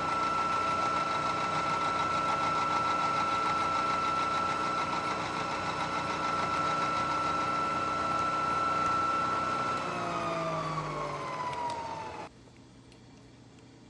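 Milling machine running with a steady high whine, then switched off about ten seconds in, its whine falling in pitch as it spins down. The sound cuts off abruptly about two seconds later, leaving a faint low hum.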